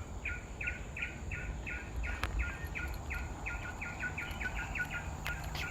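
A bird calling a long, even run of short notes, about four a second, each note dropping slightly in pitch, over a faint steady high insect whine.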